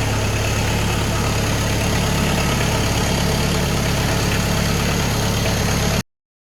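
Kubota L5240 tractor's four-cylinder diesel engine idling steadily just after a cold start in sub-zero cold. It cuts off suddenly near the end.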